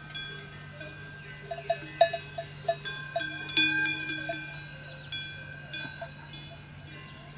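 Small metal bells clanking and ringing irregularly, with ringing tones hanging after each strike and the loudest clank about two seconds in, over a steady low hum.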